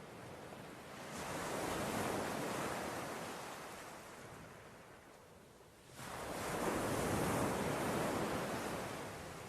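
Sea waves breaking on the shore, twice: one swells up about a second in and washes out, and a second crashes in suddenly about six seconds in, then recedes.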